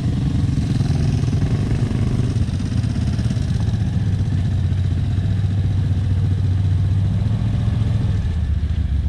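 ATV engine running steadily at low revs.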